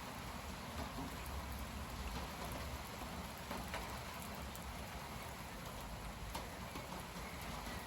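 Strong gusty wind rushing through tall trees, a steady noise with low rumbling buffeting on the microphone and scattered light ticks.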